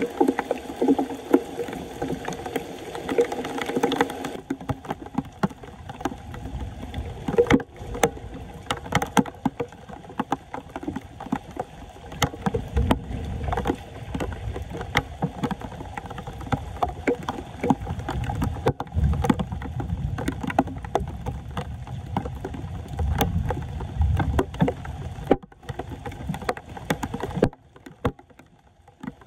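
Floodwater splashing and sloshing, with many irregular knocks and clicks, as water is stirred around a clogged street drain; the sound drops away near the end.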